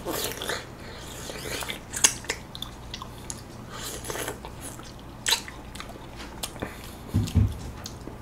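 Close-up biting and chewing of golden kiwi fruit, the end piece eaten rather than thrown away: irregular soft wet clicks, smacks and light crunches of the mouth working the fruit.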